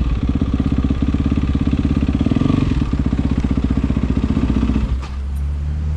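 Yamaha WR450F single-cylinder four-stroke motorcycle engine running through an Akrapovič exhaust, with a steady, even exhaust beat. About five seconds in the beat drops away to a quieter, steady low drone.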